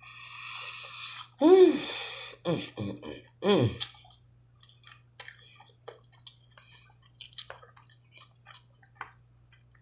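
A person eating up close: a breathy rush and a few short wordless vocal sounds in the first four seconds, then faint scattered wet clicks and smacks of chewing sticky, sauce-covered oxtail.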